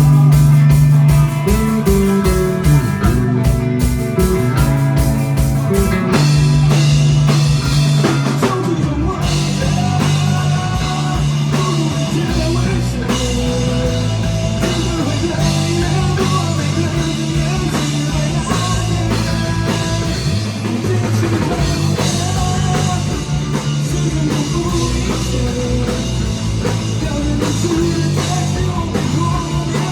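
Live rock band playing an instrumental passage, with a drum kit and guitars over steady stepping low notes.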